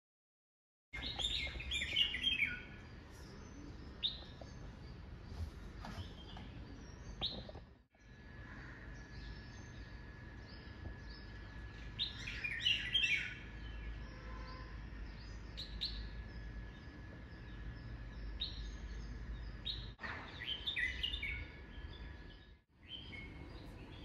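Birds chirping in clusters of quick, high chirps, loudest about a second in, around twelve seconds in and around twenty seconds in, over a low steady background rumble.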